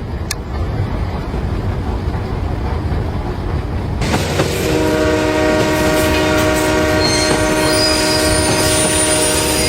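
Low rumbling of a train running, then about four seconds in the sound grows louder and a train horn blows one long, steady chord of several notes.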